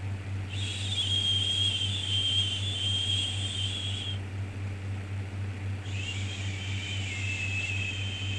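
Shushing 'shhh' sounds made to soothe a baby: two long shushes of about three and a half seconds each, the second starting about six seconds in, over a steady low hum.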